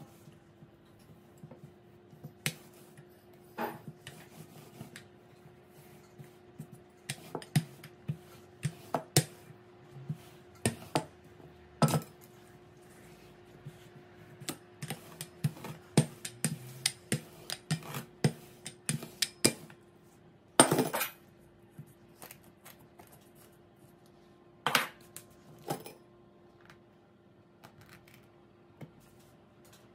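Kitchen dishes and utensils clinking and knocking irregularly, with a couple of longer scrapes, over a steady low hum.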